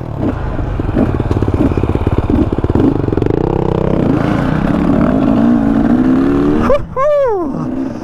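KTM 300 two-stroke dirt bike engine running under the rider, its pitch climbing steadily from about three seconds in as the bike accelerates. Near the end there is a short sweep up and back down in pitch.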